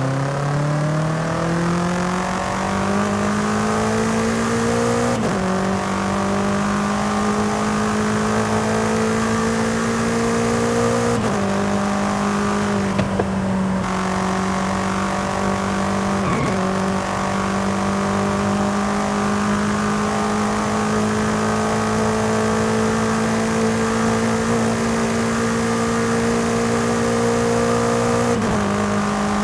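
BMW M5 CS twin-turbo V8 pulling under acceleration, its pitch climbing and then dropping sharply at each upshift, about four shifts, with long stretches of nearly steady, slowly rising engine note between them.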